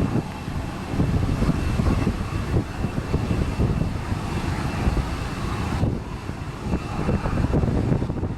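Jet airliner's engines running at taxi power, an even rush with a faint steady high whine, under heavy wind buffeting on the microphone.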